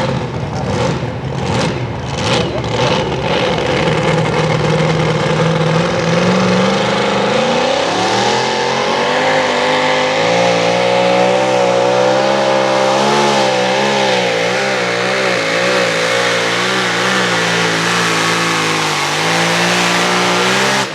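Super modified two-wheel-drive pulling truck's engine: a series of short revs at first, then the pitch climbs and holds high with a wavering note under load, dipping briefly near the end.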